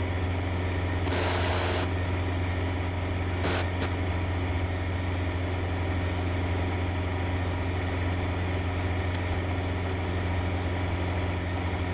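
Cessna 152's four-cylinder Lycoming engine and propeller droning steadily in cruise flight, a constant low hum with no change in pitch.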